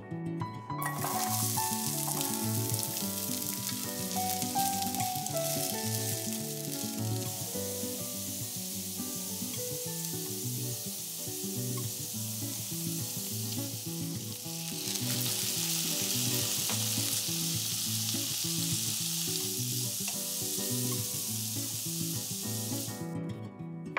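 Carrot slices stir-frying in hot oil in a frying pan, sizzling steadily as a wooden spatula stirs them. The sizzle starts about a second in as the carrots go into the pan, grows louder about two-thirds of the way through, and cuts off near the end.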